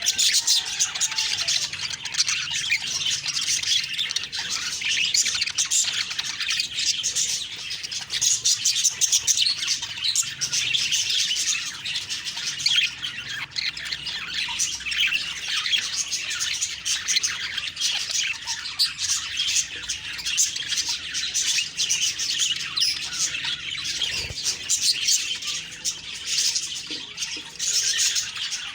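A flock of budgerigars chirping and chattering continuously, with many overlapping short high-pitched chirps and squawks.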